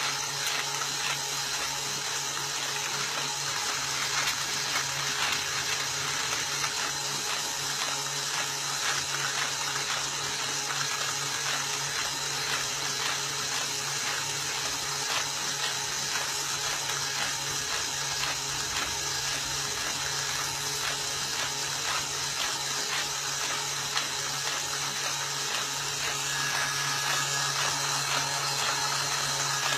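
Car engine running steadily at idle, an even hum under a dense fine ticking and hiss that holds unchanged throughout.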